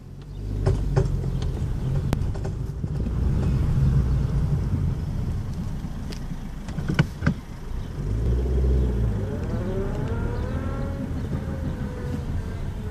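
Honda Civic driving with a steady low engine and road rumble, broken by several sharp clicks, a few in the first two seconds and a pair about seven seconds in, with a wavering whine later on. The clicking comes when moving forward and turning right; some put it down to a worn CV (homokinetic) joint, which the owner doubts since that joint was already replaced.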